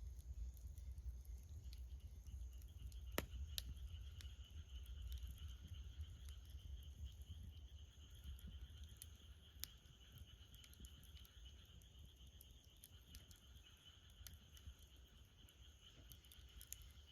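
Wood fire crackling faintly, with scattered sharp pops of burning wood, the loudest about three seconds in and again near ten seconds. Under it runs a steady faint high hiss that sets in after about two seconds.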